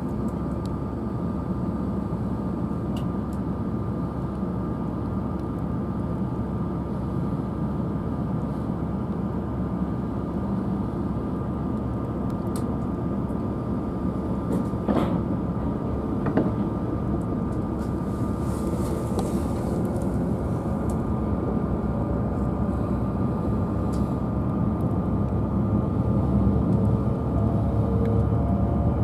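Tohoku Shinkansen train noise: a steady rumble that grows slightly louder toward the end, with faint rising whines near the end.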